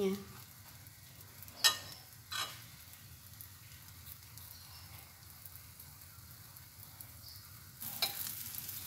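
Egg-dipped bread frying in butter in a nonstick pan, with a quiet steady sizzle. Twice, about two seconds in, a metal spoon clinks against the ceramic egg bowl. Near the end the sizzle gets louder as a spatula slides under the slices.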